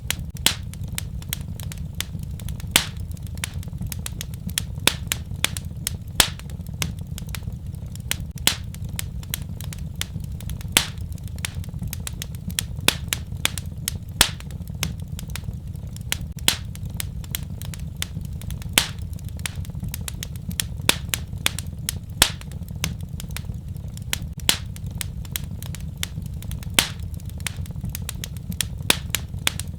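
Wood fire crackling, with sharp pops at irregular intervals, several a second, over a steady low rumble of the flames.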